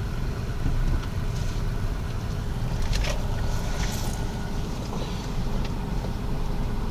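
Steady low engine and road rumble inside a car's cabin as it drives slowly, with a few faint clicks and knocks.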